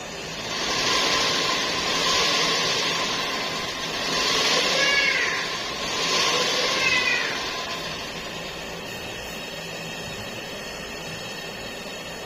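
Loud hiss of pressurised gas escaping in waves for about seven seconds, with two short squeals that rise and fall midway.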